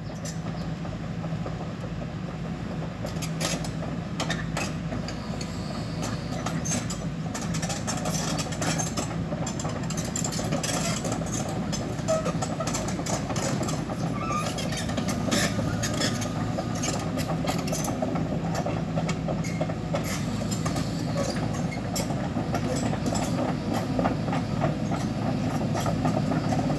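Kobelco SK140 excavator's diesel engine running steadily under load, with many irregular metallic clanks and knocks over it, growing slowly louder.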